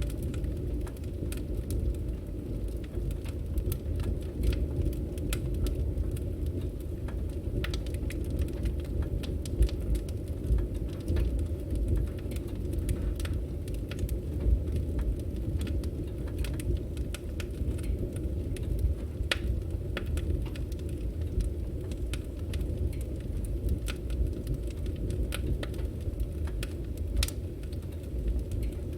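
Wood fire burning, with a steady low rumble under frequent irregular crackles and sharp pops from the burning logs.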